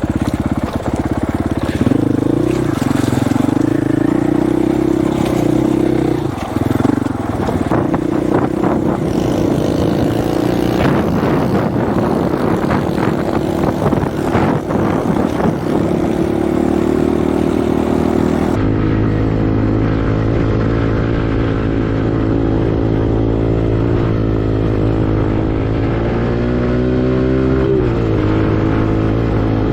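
Single-cylinder four-stroke dirt bike engine running under way, its pitch rising and falling with the throttle, with wind noise on the microphone. About 18 seconds in the sound changes abruptly to a steadier, duller engine note.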